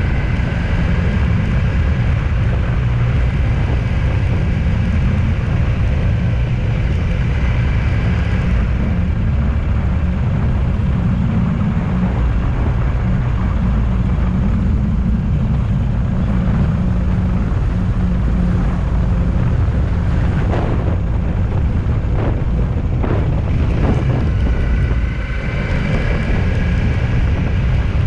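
A vehicle on the move: a steady low rumble of road and engine noise, with a faint high whine early on and again near the end, and a few light knocks partway through.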